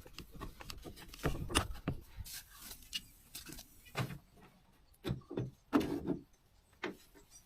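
Irregular knocks, clicks and scraping from hands handling gear on the boat and trailer, with the loudest clatter a little under six seconds in.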